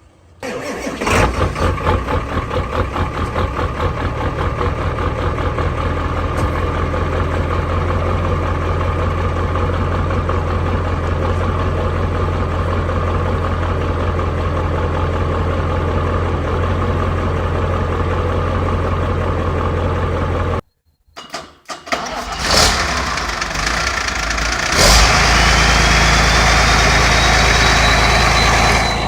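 A large diesel engine cold-starting: it catches abruptly, fires unevenly for a second or two, then settles into a steady idle. After a sudden cut about two-thirds of the way through, a second diesel starts and runs louder, with a whine rising in pitch.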